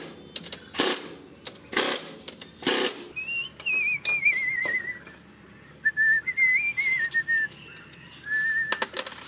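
Three sharp knocks about a second apart, then a person whistling a wavering tune for several seconds.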